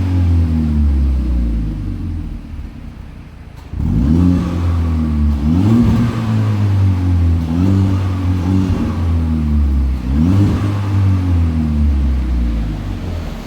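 Volkswagen Golf VI 1.4 TSI four-cylinder with a custom end muffler, revved repeatedly through the exhaust. Each rev climbs quickly and then dies away, about five times after a brief drop toward idle near the start.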